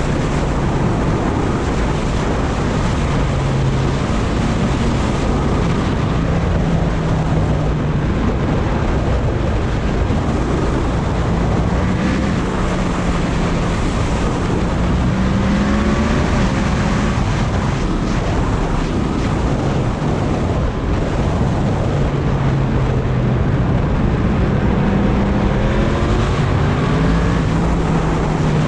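Heavy wind buffeting the microphone of a Yamaha MT-10 motorcycle riding at speed. Under the wind, the bike's crossplane inline-four engine note rises and falls several times as the rider changes speed and gears.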